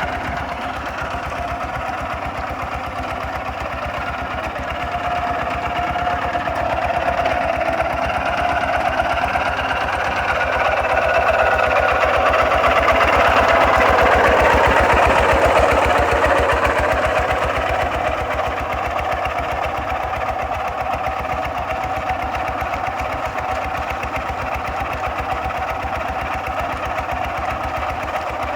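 Kubota RT 140 DI single-cylinder diesel engine on a walking tractor running steadily while plowing, with a fast, even chugging. It grows louder toward the middle and eases off again.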